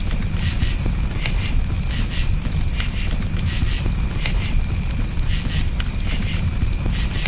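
Campfire crackling over a steady low rumble, with crickets chirping in short high pulses, often paired, about once a second.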